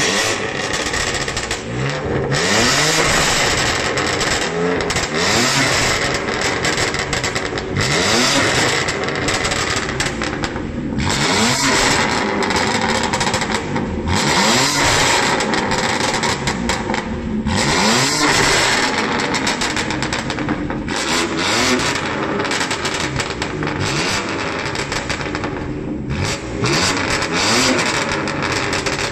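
BMW M2's turbocharged straight-six revving hard again and again through a valved aftermarket exhaust, the pitch climbing then falling away each time, with a few brief lifts off the throttle.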